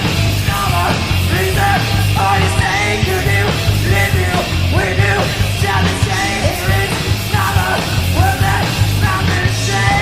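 Grunge-punk rock with heavily distorted electric guitar and a shouted, yelling lead vocal over bass and drums.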